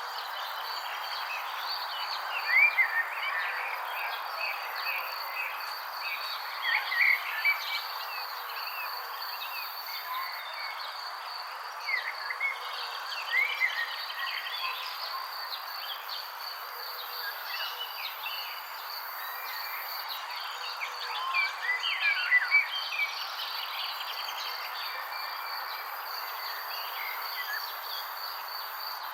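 Small birds chirping in short scattered bursts over a steady high insect drone and an even background hiss. The chirps are loudest in a few clusters spread through the stretch.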